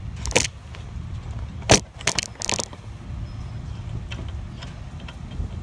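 Metal clinks and knocks from a car-mounted bike rack being worked loose by hand while its long retaining screw is turned out. There are a few sharp knocks in the first three seconds, the loudest about 1.7 s in, then lighter ticks, over a steady low rumble.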